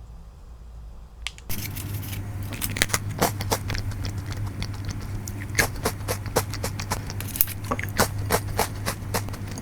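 Close-up crunching of a crisp caramel sablé cookie being bitten and chewed: a dense run of sharp, irregular crackles that starts suddenly about a second and a half in, over a low steady hum.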